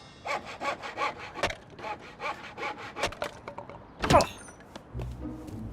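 Hand saw cutting through wood in quick back-and-forth strokes, about four a second, then a loud sound sliding down in pitch just after four seconds as the cut ends.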